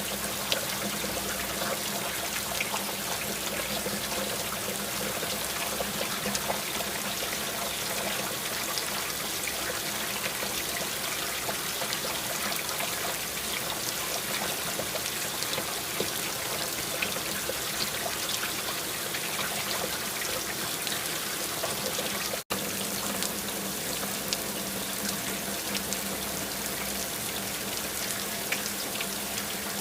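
Steady rain falling, a continuous hiss dotted with many small drop ticks, with trickling water. Near two-thirds of the way through, the sound cuts out for a split second.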